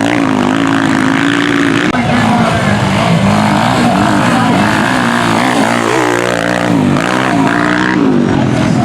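Several Honda CG single-cylinder four-stroke motorcycles racing, their engines revving up and down through gear changes, with the pitches of different bikes overlapping and crossing.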